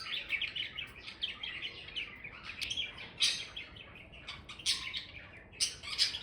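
A flock of small birds chirping and twittering, many short high calls overlapping without a break, a few standing out louder.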